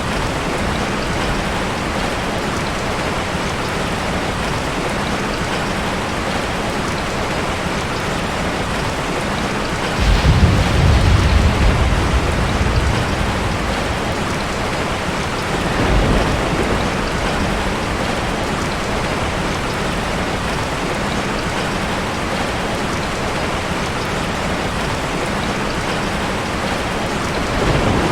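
Steady heavy rain falling, with low rumbles of thunder: a sudden loud rumble about ten seconds in that lasts about three seconds, then fainter ones near the middle and near the end.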